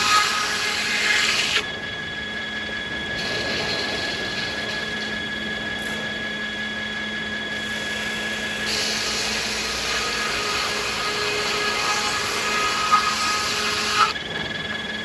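Sawmill saws running, cutting through American beech in two louder stretches: one at the start that stops after about a second and a half, and one from about 9 seconds in. Two sharp knocks come near the end of the second cut.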